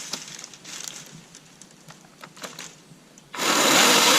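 Kobalt 24V brushless 12-inch cordless chainsaw starting up suddenly about three seconds in and running loud and steady, after a few light knocks and clicks.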